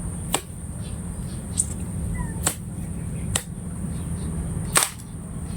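About five sharp clicks or knocks at uneven intervals, the loudest near the end, over a steady high-pitched drone.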